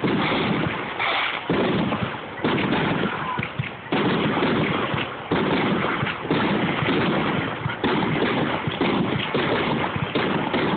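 Fireworks going off in a rapid run of bangs, roughly one every second or so, with crackling and rumbling filling the gaps.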